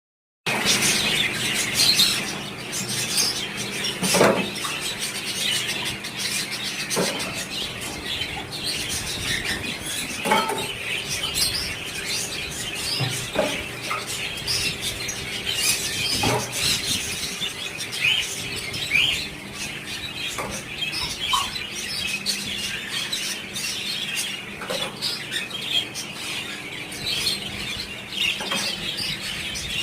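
A group of budgerigars chattering and chirping continuously, with frequent short sharp clicks among the calls and a faint steady low hum underneath.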